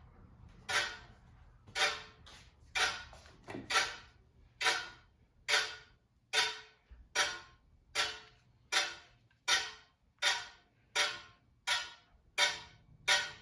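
Casablanca Comfort Touch Stealth ceiling fan running, with a regular scrape about every three-quarters of a second as it turns. The owner puts the scraping down to the loose light kit, and suspects the flywheel is broken or loose.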